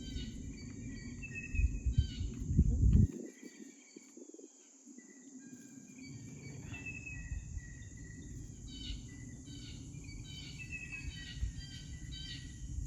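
Several songbirds chirping and calling in short repeated notes over a steady high insect drone. A low rumble of wind on the microphone is loudest about two to three seconds in, cuts out suddenly, and returns a few seconds later.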